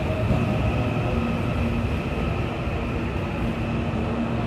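CPTM electric commuter train running along the platform: a steady rumble of wheels on rails with a faint, even whine from its traction equipment.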